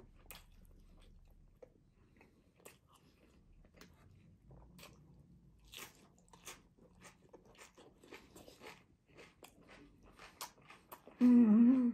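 Close-miked eating: quiet chewing with many short, wet clicks and crackles from the mouth and from fingers handling food. Near the end comes a brief loud hummed "mmm".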